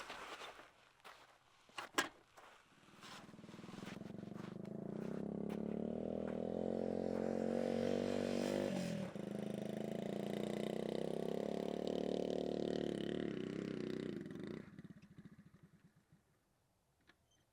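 Motorcycle engine running, its pitch rising, with a gear change about nine seconds in, then holding steady before fading away near fifteen seconds. A few sharp clicks come before it.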